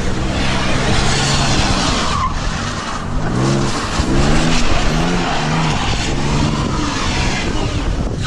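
Truck engine revving up and down several times in quick swells from about three seconds in, over a steady loud rushing noise.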